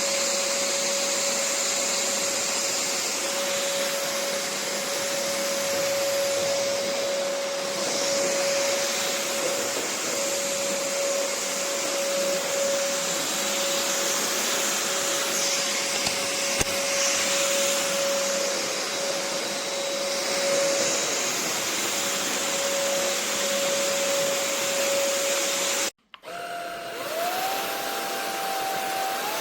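Vexilar V9PRO cordless stick vacuum running steadily, a constant motor whine over the rush of air. About 26 seconds in it cuts off abruptly, then starts again with its pitch rising as the motor spins up.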